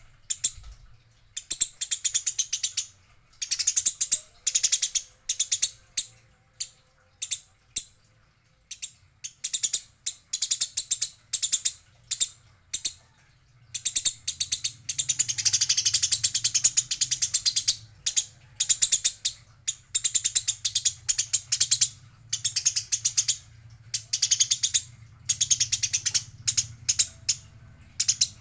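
Eurasian tree sparrows chattering in bursts of fast, rattling chirps. Some bursts are short and some last several seconds, with a long, dense stretch about halfway through.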